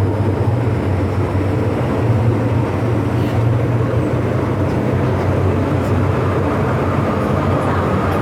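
MTR M-Train electric multiple unit running on the Tsuen Wan Line, a steady loud rumble with a strong low hum.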